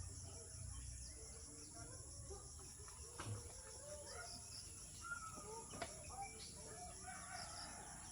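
Steady high-pitched drone of insects, with faint scattered chirps and a few sharp clicks, two of them about three and six seconds in.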